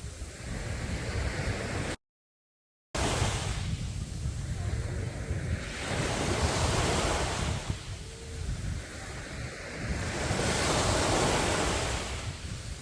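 Sea waves breaking and washing up a sandy beach, the surf swelling and fading every few seconds. The sound cuts out completely for about a second, two seconds in.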